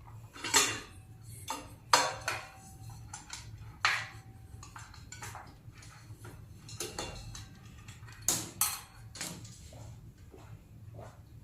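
Metal parts being handled: a series of sharp clinks and knocks, each with a brief ring, loudest about half a second in, at two seconds and twice close together near the end, over a low steady hum.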